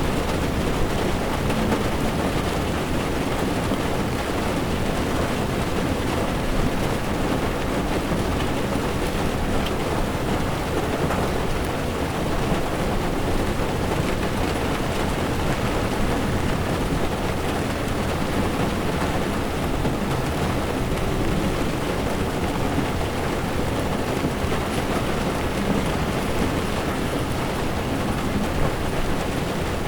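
Heavy rain falling steadily on a moving car's windshield, with tyres running on the wet road beneath it as a deep, even rumble.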